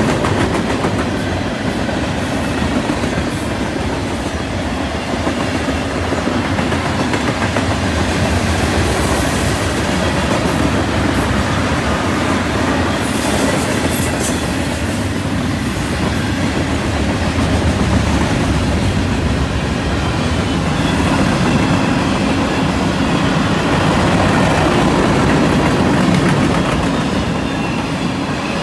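Freight cars of a CN mixed freight train (boxcars, lumber-loaded flatcars and tank cars) rolling past, a steady rumble and clatter of steel wheels on the rails.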